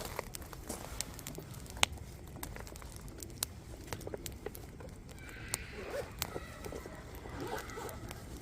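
Firewood burning in a campfire, crackling with frequent sharp, irregular pops and snaps over a low hiss. From about five seconds in, a faint wavering sound rises in the background.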